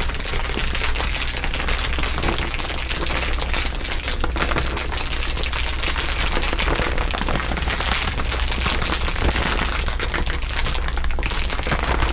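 Dense, continuous crinkling of several layered crinkle recordings at once, a rapid, irregular crackle of many small clicks with no pause.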